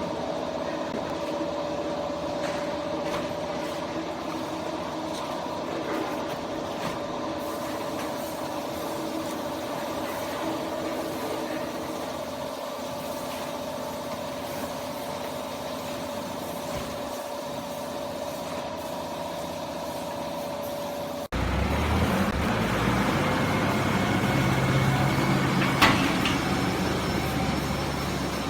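Hydraulic power unit of a double-cylinder vertical cardboard baler running with a steady tonal hum. About 21 seconds in it changes abruptly to a louder, lower, rougher machine noise, with one sharp knock a few seconds before the end.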